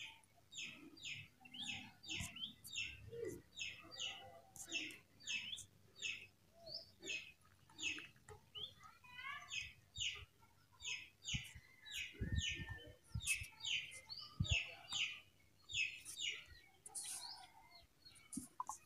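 A small bird chirping over and over, short falling chirps about twice a second, with a few dull low thumps about two-thirds of the way through.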